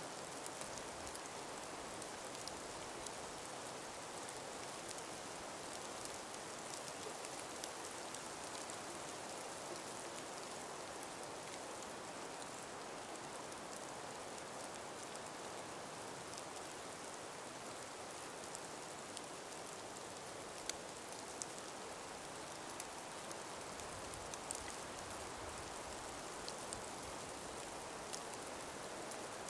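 Calm winter breeze in an ice- and snow-laden forest: a soft, steady hiss with scattered small ticks.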